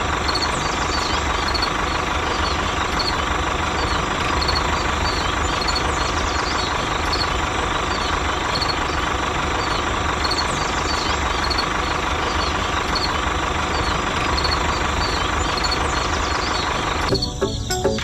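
Small motor of a homemade miniature tractor running steadily, with a faint regular high tick through it. Near the end it gives way to music.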